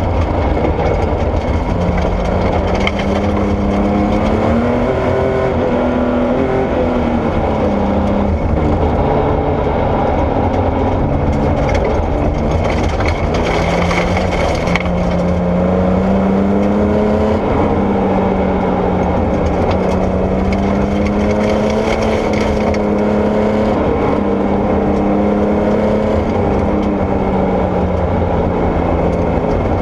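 Porsche 964 rally car's air-cooled flat-six engine under hard driving, the revs climbing and dropping again and again through gear changes and corners. Underneath runs a constant noise of tyres on loose gravel.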